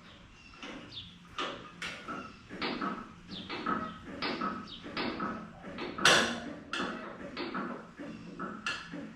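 Irregular metal knocks and clanks, about two a second, loudest about six seconds in, from the steel wheel chock of a motorcycle lift being shifted and reset.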